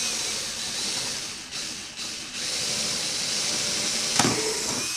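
Cordless drill boring pilot holes through a plastic skylight dome, a steady hissing cut that dips briefly twice, with a sharp knock about four seconds in.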